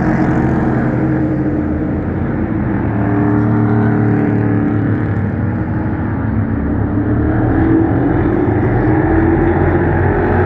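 Engines of a field of Pro Truck stock-car racers running laps on a short oval track, several engine notes overlapping and rising and falling as the pack goes around.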